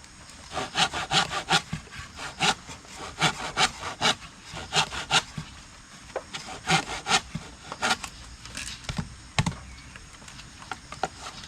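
Rhythmic rasping strokes, coming in short runs of three or four with brief pauses between.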